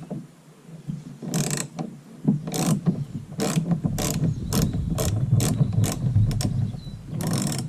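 Hand ratchet wrench clicking in a series of short strokes that come quicker toward the end, as a bolt is worked on the car.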